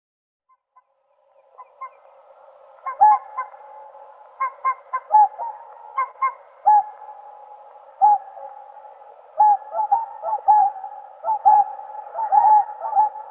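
Whooper swans calling: short, loud honking calls that begin after a second or so of silence and come thicker toward the end, several birds overlapping.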